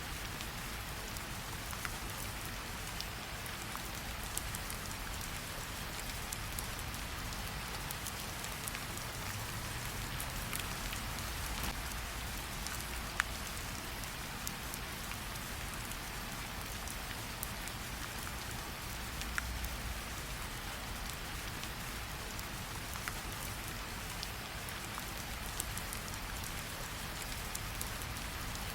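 Steady rain falling, an even hiss with scattered sharp crackles from a campfire, a few of them louder.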